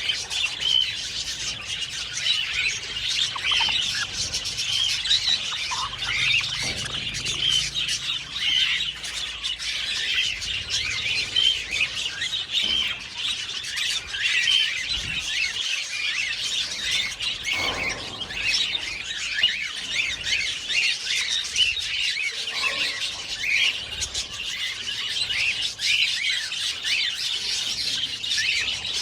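An aviary flock of budgerigars chattering and chirping without a break, many short warbling calls overlapping.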